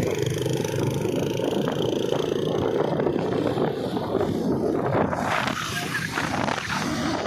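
Loud vehicle engine noise, engines running and revving at a car and bike show. A louder, hissier rush of noise comes in about five seconds in.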